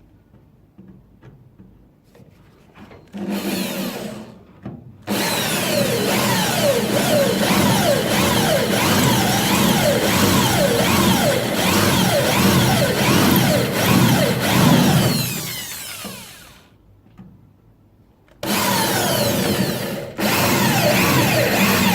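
Power drill with a spot weld drill bit cutting out the spot welds of a steel car body panel. It runs in bursts: a short one about 3 seconds in, a long one of about ten seconds whose pitch keeps dipping and rising as the bit bites, then two more near the end.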